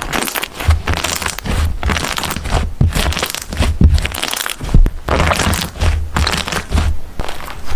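Slime squeezed and pressed by hand, giving a continuous dense crackling and crunching with soft low thumps from the handling.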